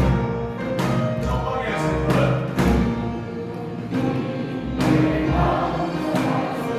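A choir singing a worship song over orchestral accompaniment, with sustained chords and a few struck percussion accents.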